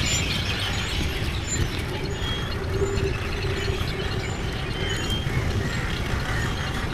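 Steady rumble of wind and road noise while riding along a street, with a few short high chirps near the middle.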